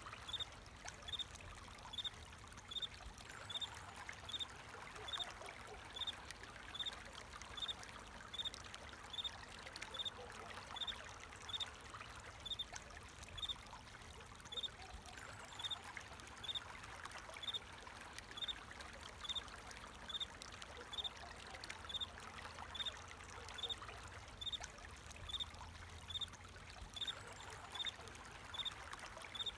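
A cricket chirping in short, evenly spaced pulses about once a second, over the steady sound of flowing water.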